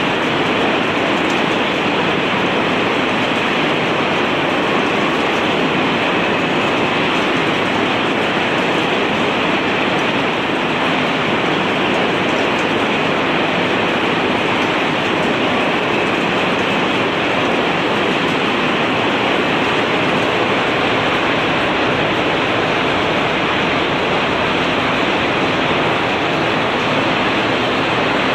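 Electric arc welding running steadily without a break: a continuous, even crackling hiss from the arc as a weld bead is laid.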